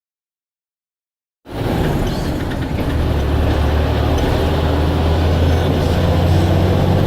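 Blue Bird All American bus engine running, a steady low drone that grows stronger about three seconds in. The first second and a half is dead silence before the sound cuts in abruptly.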